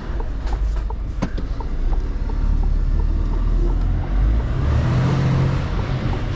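Mercedes-Benz Actros truck's diesel engine running at low speed, heard from the cab while manoeuvring; the engine note grows louder and fuller about four and a half seconds in.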